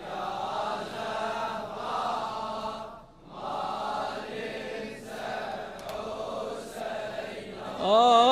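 Wordless backing chorus of voices chanting in a Shia latmiya (devotional lament), in short wavering phrases with a brief dip about three seconds in. Near the end a solo male voice comes in much louder, holding long steady notes.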